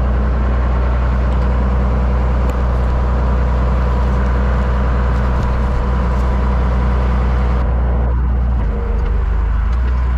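A vehicle engine running steadily with a deep, even hum. The higher hiss drops away about three-quarters of the way in.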